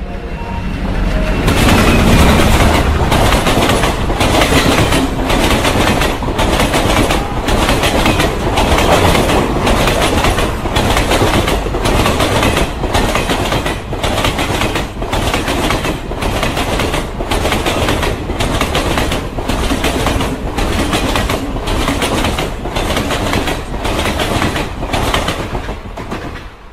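Passenger train running at speed, its wheels clattering over rail joints in a steady rhythm of about one beat a second. It builds up over the first two seconds and stays loud.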